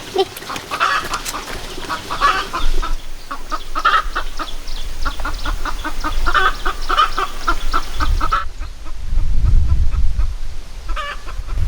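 Chickens clucking in quick, busy runs of short calls, with a low rumble about two-thirds of the way in and a few last clucks near the end.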